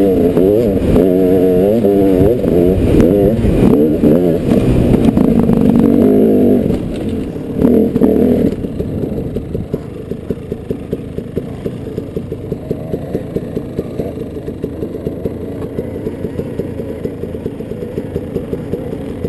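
Dirt bike engine revving hard, its pitch rising and falling repeatedly for about six seconds, with one more short blip of throttle around eight seconds. It then drops back to a much quieter, steady low running.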